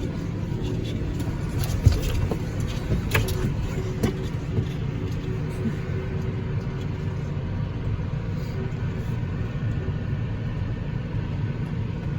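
Tractor engine running steadily as it drives, heard from on board, with a sharp knock about two seconds in.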